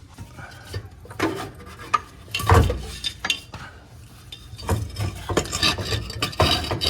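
A loose section of car exhaust pipe clanking and scraping against metal as it is worked out through an engine bay, in irregular knocks and scrapes; the loudest knock comes about two and a half seconds in.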